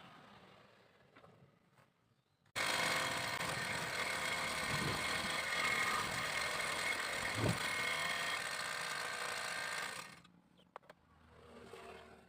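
Electric power tool running for about seven seconds, starting suddenly and winding down near the end, with a steady motor whine over a dense rasping noise.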